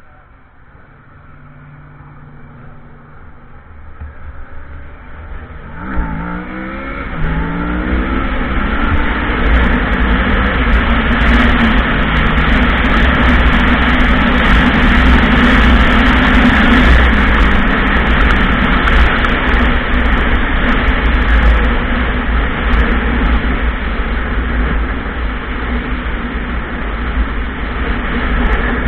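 Motorcycle engine pulling away, its pitch rising and dropping back twice about six seconds in as it shifts up. It then runs steadily and loudly at speed with a low rumble and a rushing noise.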